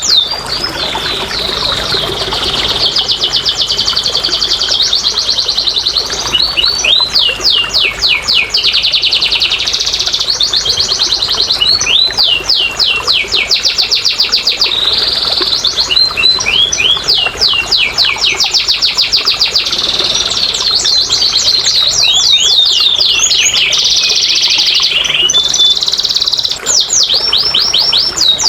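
Domestic canary singing an unbroken song: fast runs of repeated sweeping notes alternating with dense, buzzing trills, high-pitched and loud. This is a lure song (pancingan) meant to prompt a reluctant canary to sing.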